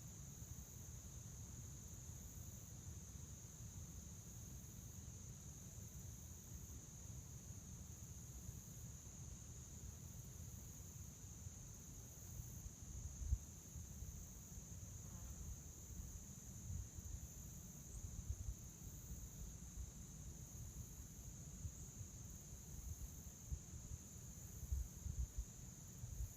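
Crickets trilling in one steady, unbroken high chorus, faint, with a low rumble underneath that swells a few times.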